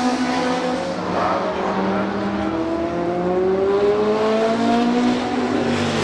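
Historic sports racing car engine accelerating, its pitch rising steadily through a gear for a few seconds, with other race car engines running under it.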